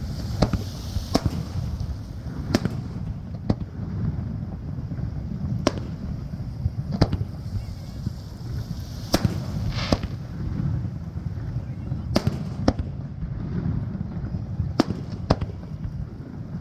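Fireworks shells bursting, about a dozen sharp reports at uneven spacing of a second or two, over a continuous low rumble.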